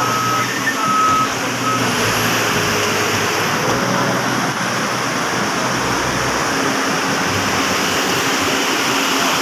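Floodwater rushing fast with a steady, loud wash. A reversing beeper sounds three times in the first two seconds.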